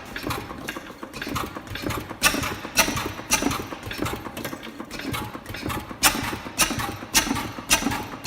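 Crossley KK hot-tube oil engine, about 1914, running: sharp exhaust beats come at uneven intervals, at their quickest about two a second, with quieter strokes in between.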